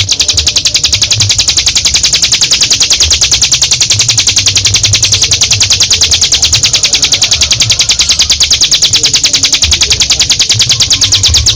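Ciblek gunung (a prinia) singing its long, unbroken rattling trill, a fast even run of high notes held for the whole stretch.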